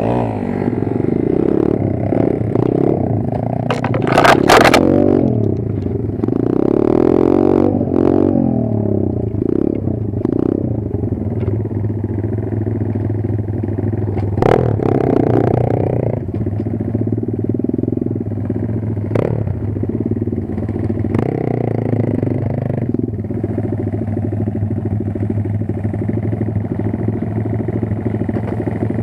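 Kayo 140 pit bike's small single-cylinder engine running, its revs rising and falling through the first half and then settling to a steady run. A few short, sharp clattering noises cut in over it, the loudest about four seconds in.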